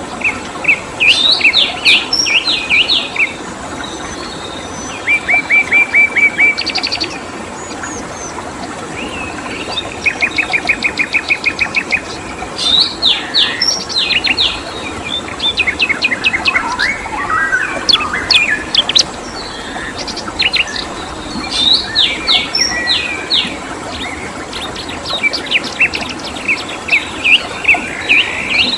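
A songbird singing phrase after phrase of quick chirps and fast, even trills, with short pauses between phrases. Underneath is a steady rushing background of flowing water.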